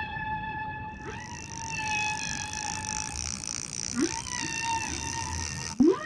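Animal-call sound effect: a long, steady high-pitched call held for several seconds over a hiss, with a new call starting with a quick rising sweep near the end.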